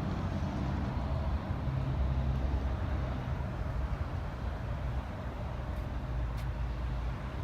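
A low, steady vehicle rumble with no speech.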